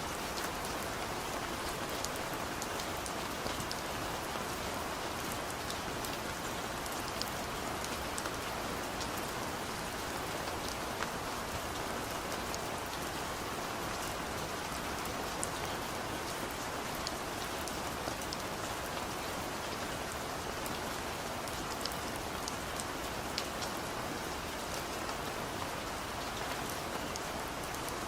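Steady rain falling, a dense even hiss with scattered individual drops ticking throughout.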